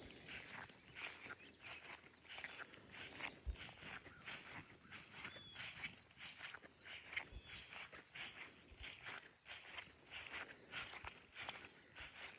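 Footsteps through grass on a mowed trail, about two steps a second, over a steady high trill of insects such as crickets.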